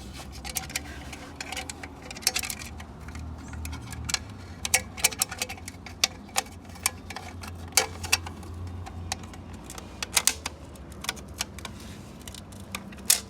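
Metal parts of a ZF 8HP automatic transmission clicking and clinking irregularly as the planetary gear set components are handled and fitted during reassembly, some clinks sharp and loud, over a steady low hum.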